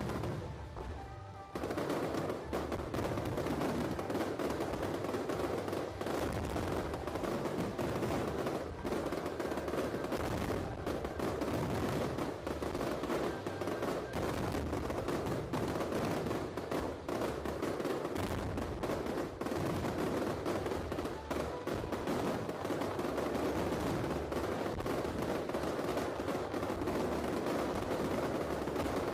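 Aerial fireworks going off in a dense, rapid barrage of crackling bangs. It starts about a second and a half in and keeps up without a pause.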